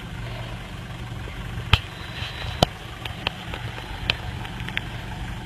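Steady low hum of an idling vehicle engine, with a few sharp clicks scattered through, the two loudest a little under two seconds and a little over two and a half seconds in.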